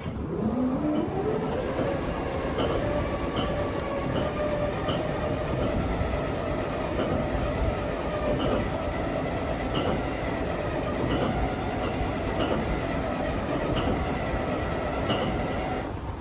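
Paxman VP185 V12 diesel of a Class 43 HST power car starting from cold after long disuse: the engine note climbs in pitch over the first second or two, then settles into a steady, loud run.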